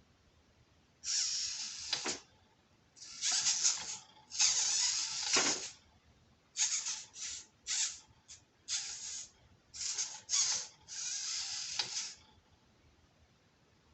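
Small RC crawler's extended 260 brushed electric motor and gearbox whirring in about ten short bursts as the throttle is blipped. The bursts last from a fraction of a second to just over a second, with gaps between them.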